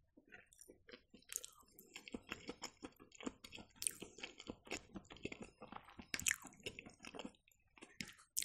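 Close-miked chewing of fried champignon mushrooms: soft wet mouth sounds and small clicks in an irregular run.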